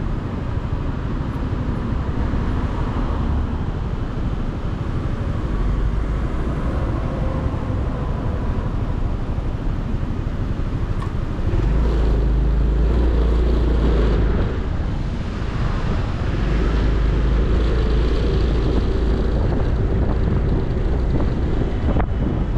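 Motorcycle under way on the road: steady engine and road noise, with a heavier low rumble from about halfway through.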